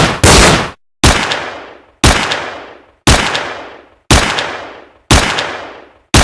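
Gunshot sound effects: a half-second blast cuts off near the start, then single gunshots follow about once a second, six of them, each dying away in a long echoing tail.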